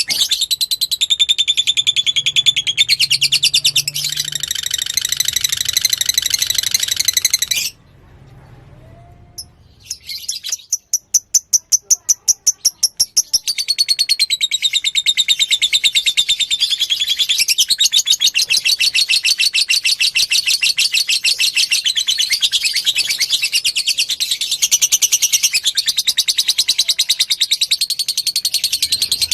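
Lovebird singing a long, fast, high-pitched chattering trill (the 'ngekek' of a fighter-type lovebird), the kind of recording used as a lure to set other lovebirds answering. About 8 seconds in it breaks off briefly, comes back as a quick string of separate chirps, then runs on as a continuous trill.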